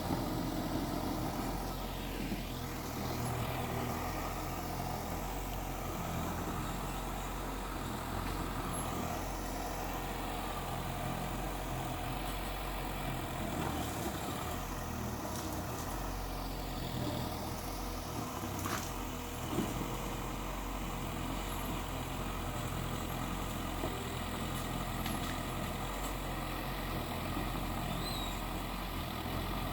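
Heavy diesel machinery engine running steadily, with a few sharp knocks.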